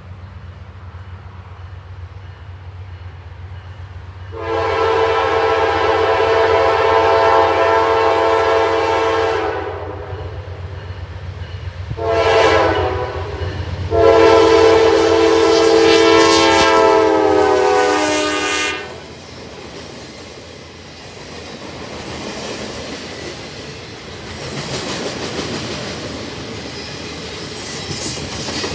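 Freight locomotive's Nathan K5LA chime horn sounding a long blast, a short one and another long one, the last dropping in pitch as the locomotive passes. Afterwards the train rumbles by, its wheels clattering over the rails.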